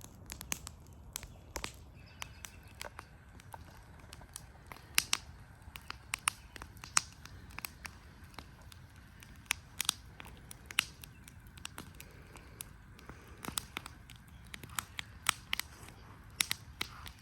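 Campfire wood crackling, with irregular sharp pops and snaps.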